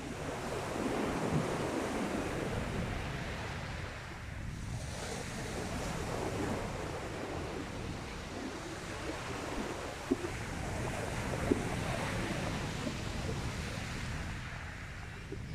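Sea waves washing onto the beach, swelling and easing every few seconds, with wind on the microphone. Two brief sharp clicks stand out past the middle.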